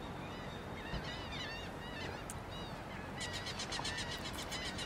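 Birds calling in the background: a string of short arched chirps, then a fast rattling series near the end, over a faint steady outdoor hum.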